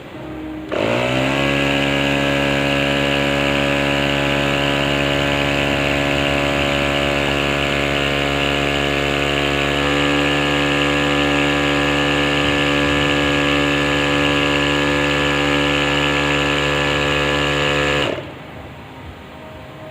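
A small motor or engine spins up in pitch within about half a second, runs steadily at one speed, then cuts off suddenly near the end.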